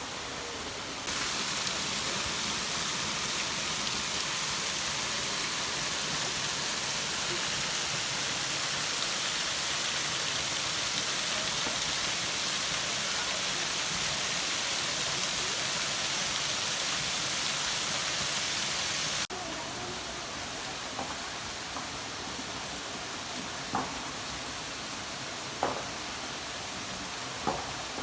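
Waterfall rushing: a loud, even hiss that cuts off abruptly about 19 seconds in. A quieter rushing follows, broken by a few short, sharp ticks.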